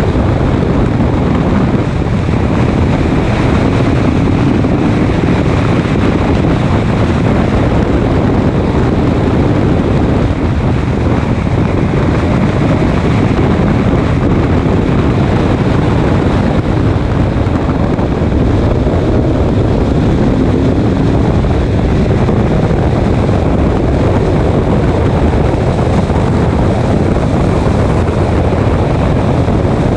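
Race car running at speed on track: its engine and heavy wind noise on the microphone make a loud, unbroken din, with the engine's pitch drifting up and down a little.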